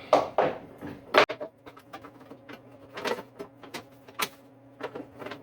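Sharp clicks and knocks of power cords and plugs being handled and plugged into a power bar, the loudest about a second in, over a steady low hum.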